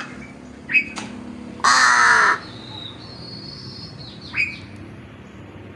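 A pet crow cawing: one long, harsh caw about two seconds in, with short, sharp calls before and after it.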